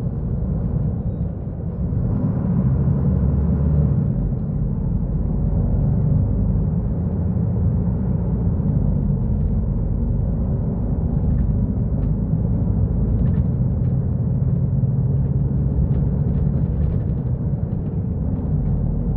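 Diesel engine of a Mercedes-Benz O-500U city bus running under way: a steady low rumble whose pitch shifts up and down a few times.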